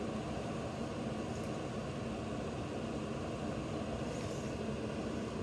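Electric heater's fan running steadily: an even whooshing noise with a faint low hum.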